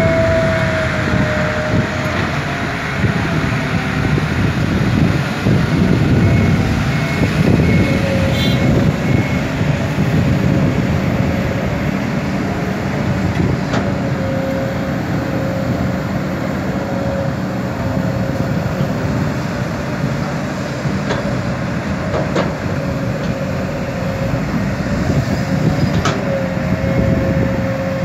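Kobelco SK200 excavator's diesel engine running loud and steady under load, with a thin whine over the low rumble, while it digs soil and loads a dump truck.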